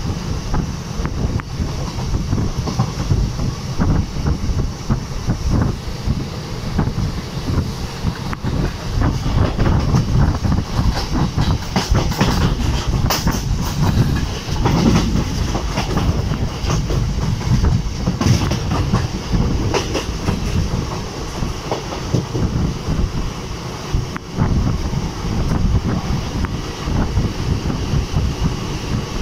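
Passenger train running at speed, heard from the open coach door: steady rumble of wheels on the rails with clattering clicks, which come thickest about halfway through.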